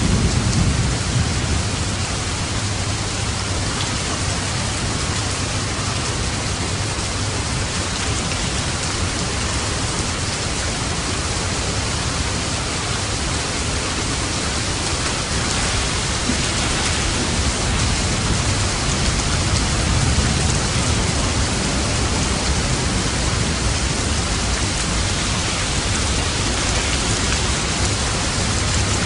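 Steady, dense rain falling, with light thunder rumbling low underneath that swells briefly near the start and again about two-thirds of the way through.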